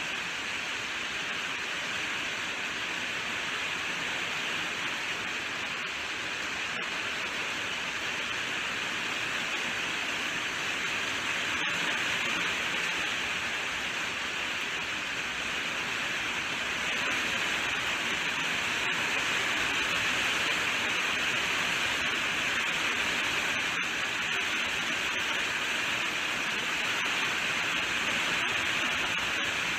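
Steady rainfall, an even hiss without any drops standing out, growing slightly louder about halfway through. A few split-second gaps break it.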